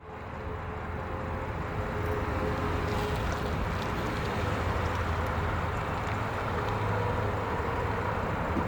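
2016 Ford F-150 XL pickup's engine idling, a steady low hum.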